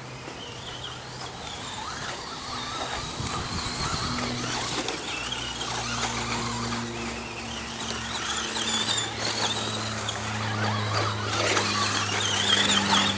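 Radio-controlled stadium trucks racing, with a high-pitched whine and squeal that rises and falls again and again as the throttle is worked. It grows louder toward the end.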